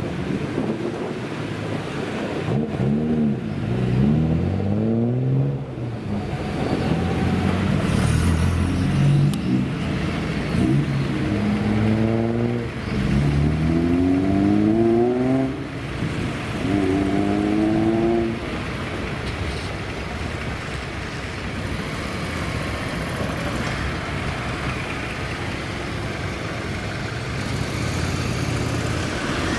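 Classic car engines accelerating: the pitch climbs and drops back again and again through the gear changes for most of the first eighteen seconds. Then a steadier run of engine and road noise follows.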